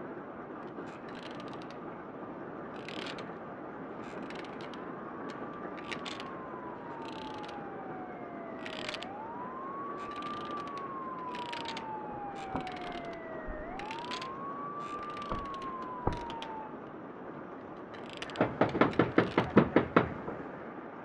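A police siren wailing in slow rising and falling sweeps over a steady hiss. Near the end comes a fast run of about ten sharp knocks.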